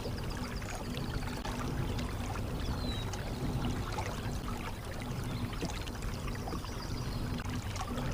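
Water trickling and splashing along a moving kayak's hull, with small ticks and a faint low hum throughout.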